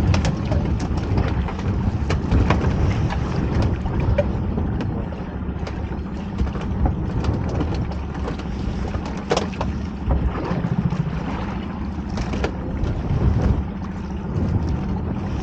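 Steady low rumble of wind and water around a small open boat, with scattered knocks and clicks of gear being handled aboard.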